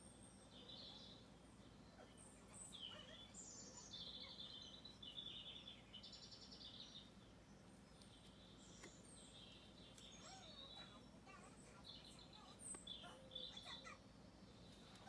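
Faint birdsong: several birds chirping, with a couple of short buzzy trills.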